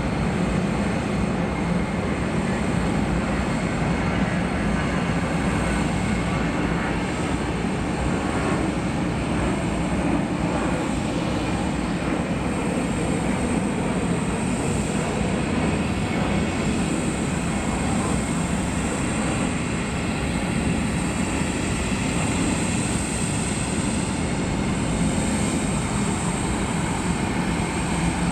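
Boeing 747-400 jet engines running steadily: an even jet noise with a high whine held on top, with no change in level.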